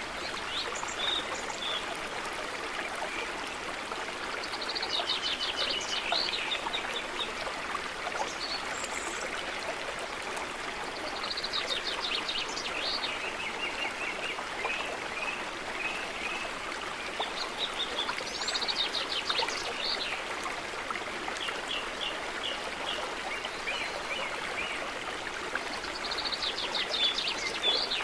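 Stream running steadily, with a songbird singing the same trilled phrase, followed by a string of short notes, four times about every seven seconds.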